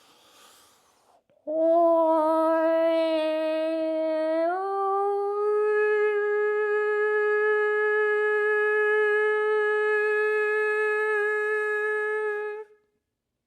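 A single human voice humming one long held note that steps up to a higher pitch about three seconds in, then holds it steadily for about eight seconds before stopping.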